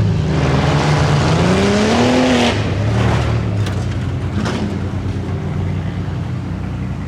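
Tuff truck engine revving hard under throttle, its pitch climbing for about a second and then dropping off sharply about two and a half seconds in, before it settles into a rough, uneven run.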